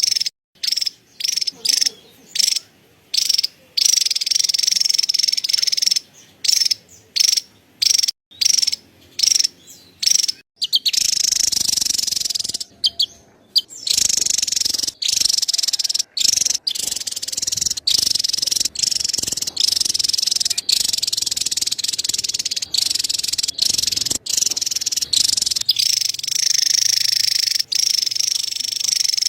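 Javan tesia chattering: a dense, high-pitched, insect-like rapid chatter. It is broken by many brief gaps through the first ten seconds or so, then runs almost without pause.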